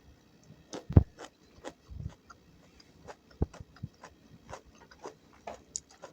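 Close-miked eating of gado-gado vegetables in peanut sauce: chewing with irregular wet mouth clicks, and a soft low thump about a second in.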